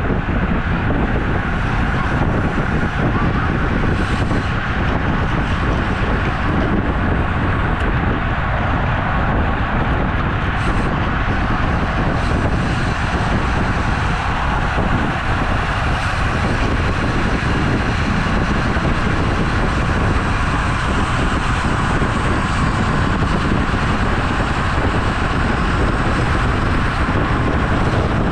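Steady rushing wind and road noise heard from a camera on a road bicycle in motion.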